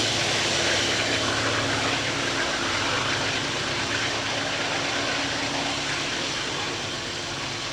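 Diesel-electric helper locomotives working under load, pushing a loaded freight train up a grade: a steady engine drone with a low hum, slowly fading as they move away.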